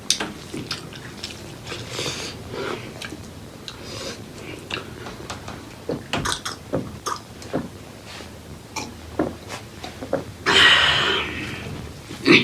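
Close-miked eating sounds: chewing and wet lip smacks over spicy pork leg curry and rice, a run of short clicks and smacks. A louder rushing noise lasts about a second, starting around ten and a half seconds in, and there is a sharp click near the end.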